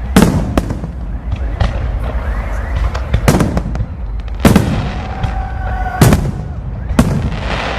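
Aerial fireworks bursting: a string of sharp bangs at uneven intervals, with a whistling tone about two-thirds of the way through.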